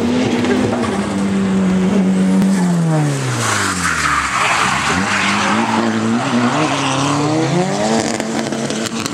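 Two-tone Toyota Corolla KE70 drift car's engine revving hard as it slides through a wet corner. The revs hold high, fall away sharply about three seconds in under a rush of tyre noise, then climb again near the end.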